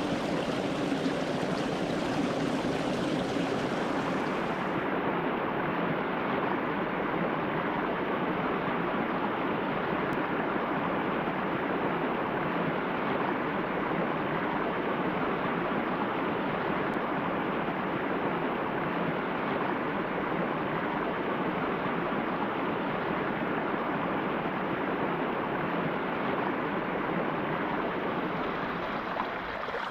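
A mountain stream flowing steadily over rocks with a continuous rushing, babbling sound. About five seconds in, the high hiss drops away and the flow sounds slightly duller.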